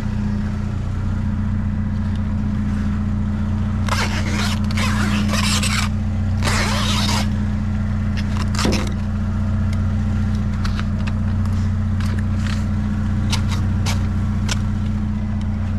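Box cutter blade scraping and slicing as scrap is stripped of its covering: two longer rasping strokes about four and six seconds in, then a run of short clicks and scrapes. A steady low engine hum runs underneath.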